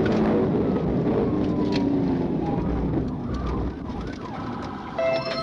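Police cruiser's siren wailing over engine and road noise during a pursuit, the wail gliding slowly down in pitch, with a brief electronic tone near the end.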